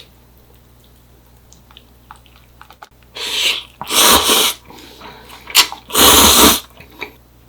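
Loud slurping of ramen noodles, three long slurps with small eating clicks between them.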